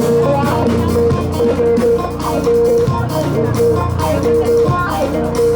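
Live band playing upbeat dance music: guitar lines over bass and a steady drum beat.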